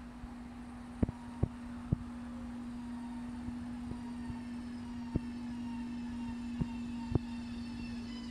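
Electric passenger train approaching along the track, slowly growing louder, with a faint high whine building toward the end. A steady low hum runs throughout, and several sharp clicks stand out, three of them close together about a second in.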